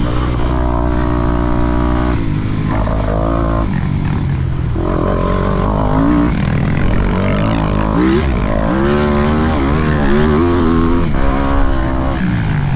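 Motocross bike engine being ridden hard, its pitch repeatedly climbing and dropping back as the rider accelerates and shifts or backs off.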